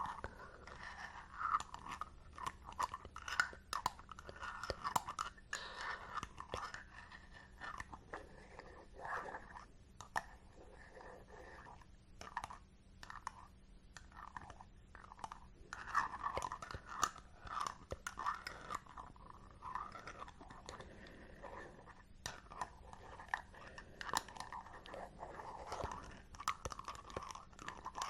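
Close-miked handling of a glass jar of hair balm: a dense, irregular run of small crackles, clicks and sticky scratching, with a short lull about midway.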